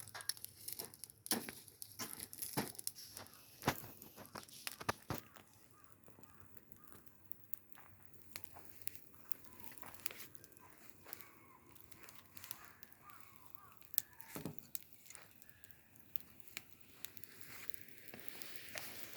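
Wood bonfire crackling, with irregular sharp pops and snaps that come thick in the first few seconds and thin out after.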